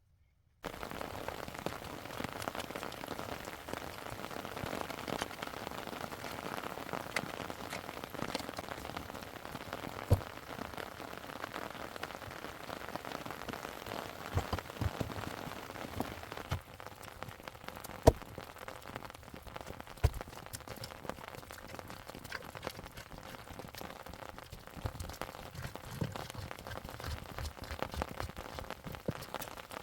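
Steady rain falling, with scattered drops tapping and a few louder single drips, the loudest near the middle. It starts abruptly just after the beginning.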